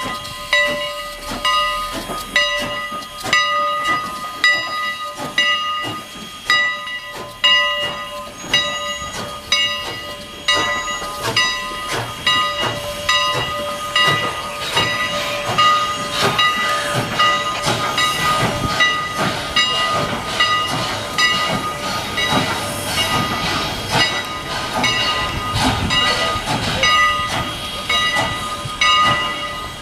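Steam locomotive's bell ringing steadily, struck about once a second, over the hiss of steam, with the train's rumble growing in the second half.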